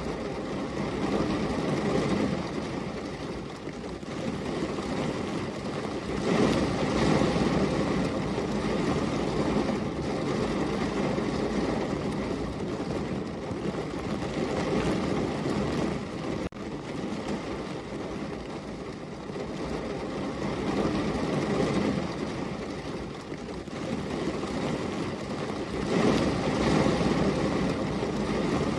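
Heavy rain falling steadily as a dense hiss and patter, swelling louder twice, about a quarter of the way in and near the end.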